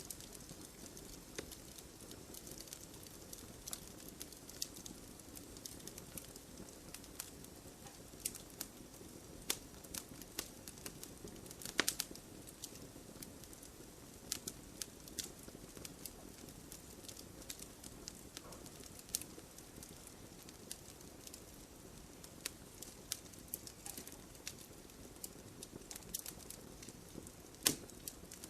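Wood campfire crackling: a soft steady hiss of flame with irregular sharp pops and snaps scattered throughout, a louder pop about twelve seconds in and another near the end.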